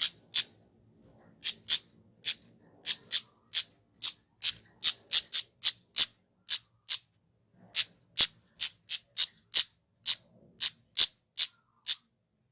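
A kemade flowerpecker giving sharp, very high chip calls in a long series, about two to three a second, with a short pause about seven seconds in.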